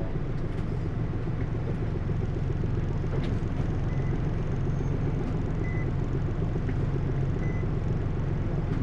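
Hino U-HT2MLAA route bus under way, heard from inside: a steady low engine and drivetrain rumble. Short faint high whines come in three times, on a bus whose running sound has developed abnormal noises, which the uploader likens to a sister bus near the end of its service life.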